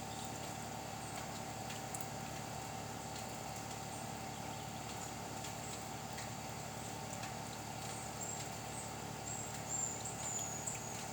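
Steady outdoor background noise: an even hiss under a constant hum, with scattered faint ticks and a few short high chirps near the end.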